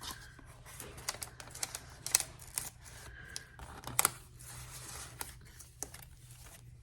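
Paper pages and tags of a handmade junk journal being handled and turned: a run of light rustles and crisp clicks, the sharpest about two and four seconds in.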